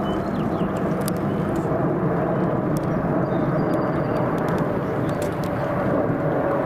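Aircraft engine noise, a steady rumble with a low hum that holds level throughout.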